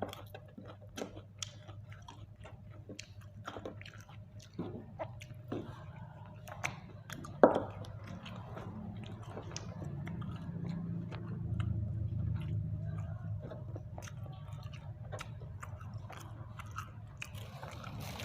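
Close-up chewing and biting of grilled chicken: irregular wet mouth clicks and smacks, with one sharper click about halfway through. A low steady hum runs underneath.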